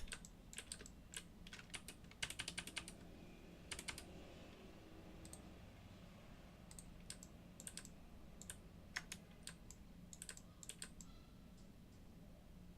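Computer keyboard keys tapped irregularly, in short quick runs and single clicks, over a faint steady hum.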